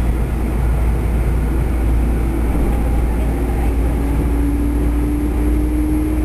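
Electric commuter train running into a terminal station, heard from inside the car: a steady low rumble of wheels and running gear, with a steady motor tone coming in about two seconds in and growing stronger.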